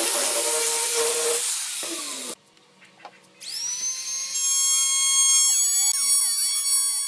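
Woodworking power tools: a loud hissing cut for about two seconds, a sudden stop and a second of near silence, then a high-speed motor spinning up into a steady high-pitched whine.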